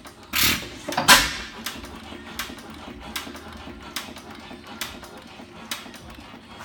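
Fairbanks Morse type H hit-and-miss gasoline engine running: two loud firing strokes close together near the start, then it coasts through its miss cycles with a sharp click about every 0.8 seconds.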